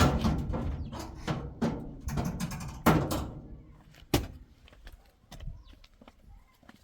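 A series of knocks and thumps, several in the first three seconds, the loudest about three seconds in and a sharp single one about four seconds in, then only faint ones.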